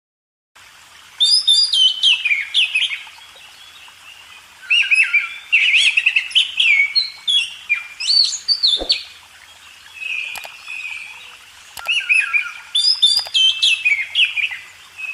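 Oriental magpie-robin singing: several bouts of quick, varied whistled phrases, with a few short clicks between them.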